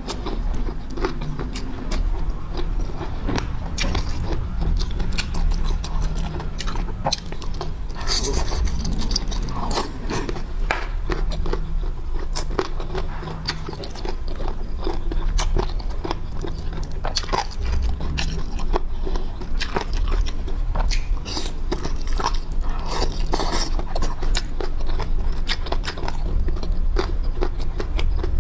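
Close-miked biting and chewing of boneless chicken feet, with many short, irregular clicks and squelches from the mouth.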